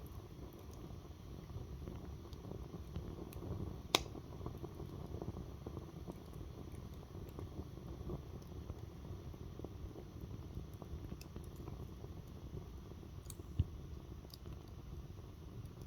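Wood fire burning with a low steady rumble of flames and scattered small crackles, with two sharp pops, about four seconds in and again near the end.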